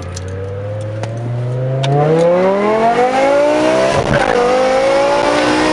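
BMW E60 M5's 5.0-litre V10 through a Meisterschaft GTC exhaust with catless headers, accelerating hard, its note rising steadily. About four seconds in, the pitch dips briefly at a quick upshift, then climbs again.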